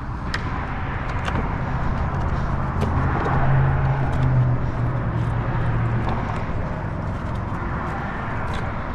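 Road traffic on the bridge overhead: a steady rumble of cars that swells and peaks near the middle, with a few light clicks.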